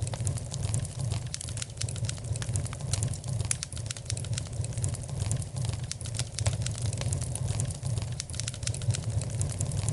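Wood fire crackling in a fireplace, with many irregular small pops over a steady low rumble.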